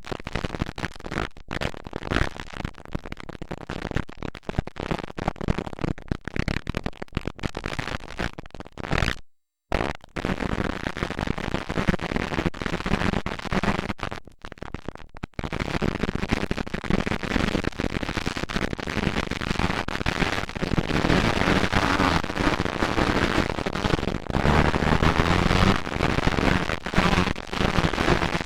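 Motocross dirt bike engines racing: a harsh, rapid popping that crackles through the camcorder's microphone. The sound cuts out briefly about nine seconds in and grows louder from about halfway through.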